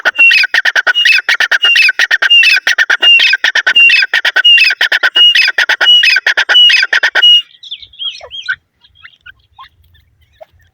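Grey francolin (desi teetar) calling loudly, a shrill phrase repeated about twice a second. The call breaks off about seven seconds in, and a few softer calls follow.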